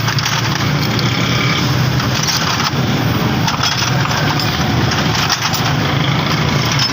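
An engine running steadily at a constant speed, a low hum under a dense mechanical noise.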